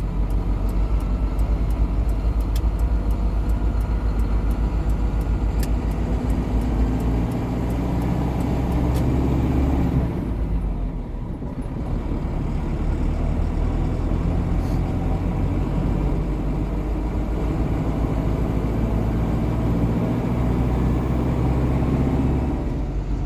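Cab interior of a GAZon Next truck under way: the diesel engine runs steadily under the road noise, with a brief drop in level about eleven seconds in, on a patchy, broken road.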